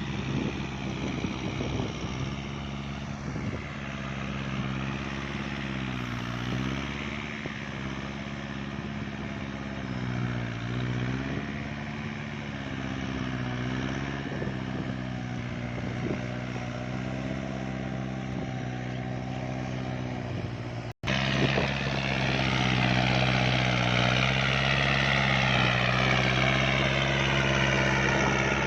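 Kubota farm tractor's diesel engine running under load while pulling a rotary tiller through wet, heavy field soil, its pitch dipping briefly every couple of seconds as the load bites. The sound drops out for an instant about two-thirds of the way through and comes back louder.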